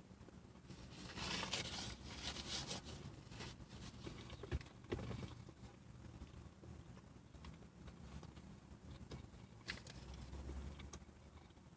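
A man biting into and chewing a double cheeseburger close to the microphone. The crackly mouth and bite noises come in irregular spells, busiest in the first few seconds, with scattered small clicks after.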